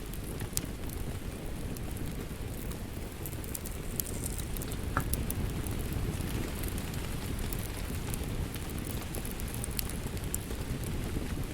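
Crackling fireplace mixed with steady rain: a constant low rush with sharp pops and crackles of burning wood scattered throughout.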